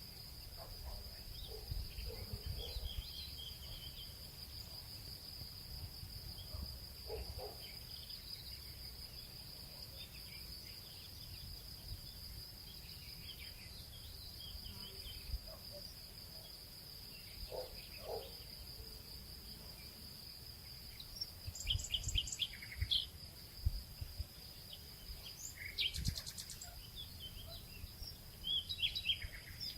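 Nature ambience: a steady high insect trill under scattered short bird chirps, which come thicker after about twenty seconds, with a sharp click a few seconds before the end.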